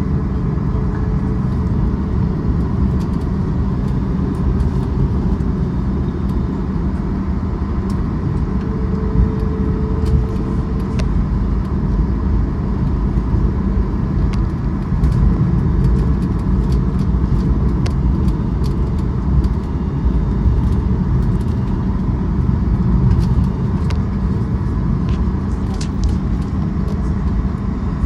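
Steady low rumble of a vehicle heard from inside, with faint scattered clicks and rattles.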